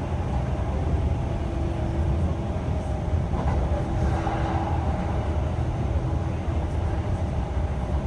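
Running noise inside a Kintetsu local train carriage moving at speed: a steady low rumble of wheels on rail and car body, with a faint steady hum above it.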